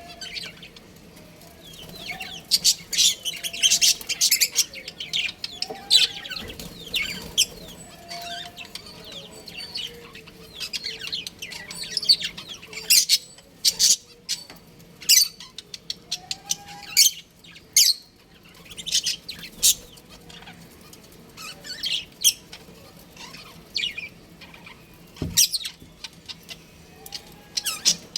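Budgerigars chirping and chattering: many short, high-pitched chirps come in irregular clusters, mixed with sharp clicks.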